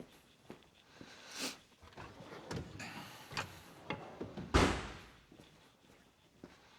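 Hand tools and metal parts clinking and knocking during exhaust manifold removal, with a series of light clicks and one louder clunk about four and a half seconds in.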